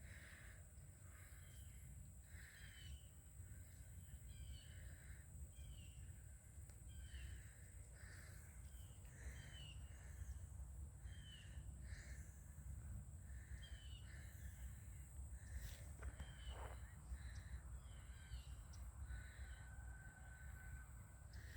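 Faint crows cawing over and over, about once a second, with small higher chirps from other birds between the caws.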